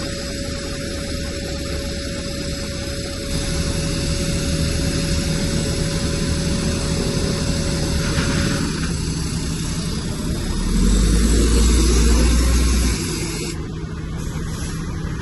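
Heavy diesel earthmoving machinery running steadily, most likely the bulldozer's engine at work, with a louder low rumble for about two seconds past the middle.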